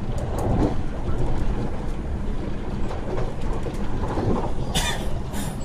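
Running noise of an MTR West Rail Line eight-car electric train heard from inside the carriage: a steady rumble of wheels on rails with scattered clicks, and two short hiss-like bursts near the end.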